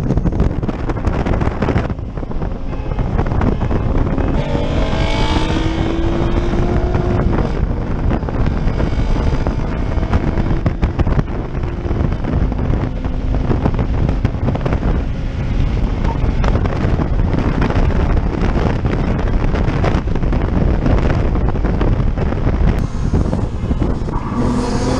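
Heavy wind buffeting on a GoPro microphone whose side door is open, over a Toyota Camry's engine accelerating hard. The engine note rises in pitch a few seconds in and again near the end.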